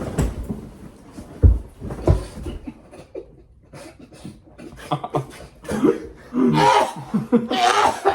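A few low knocks and handling noise, then a person coughing in loud bursts over the last few seconds.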